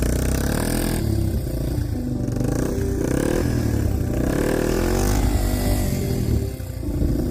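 Yamaha TW200's single-cylinder four-stroke engine revving up and down under load as the bike churns through deep snow, its rear wheel spinning.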